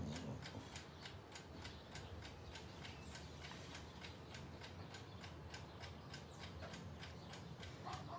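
Steady, even ticking, about three ticks a second, over a faint low hum.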